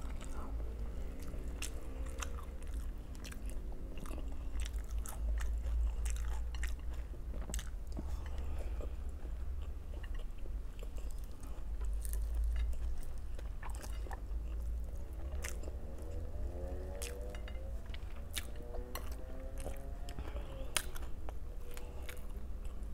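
Close-up chewing and biting of food, with many sharp crunchy clicks: eating lumpiang togue, a bean-sprout spring roll. A steady low hum runs under it.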